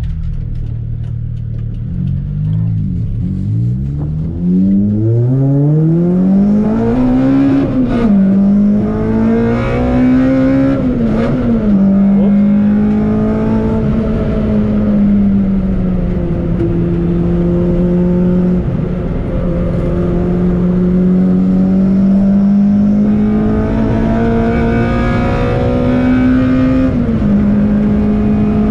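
Toyota Corolla T-Sport's four-cylinder engine heard from inside the car, accelerating hard through the gears: the revs climb steeply, fall sharply at gear changes about eight and eleven seconds in, then hold near-steady at a cruise over road noise.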